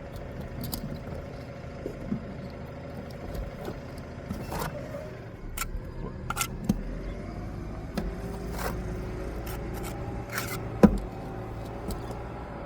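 Scattered scrapes and knocks of bricklaying work: bricks, mortar and tools being handled and set down, over a steady low rumble like an engine running. A sharp knock about 11 seconds in is the loudest sound.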